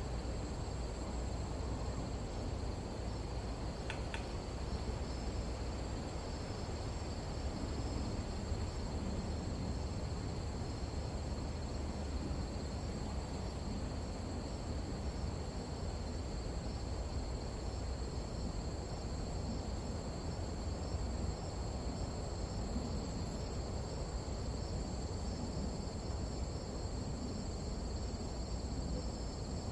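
Tropical nighttime insect chorus: a steady, high-pitched trilling held at two pitches, over a low rumble of wind noise.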